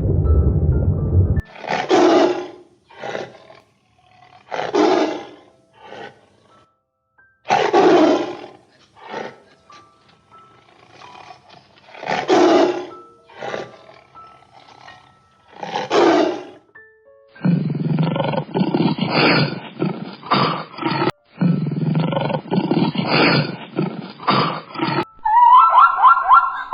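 A large animal giving a series of loud roaring calls, each about half a second long, with fainter grunts in between. A denser run of animal noise follows in the second half, and a higher warbling sound starts near the end.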